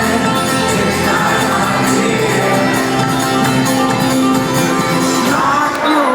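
Folk-rock band playing loud and full, with voices singing and shouting over it in a large hall; the bass drops out right at the end.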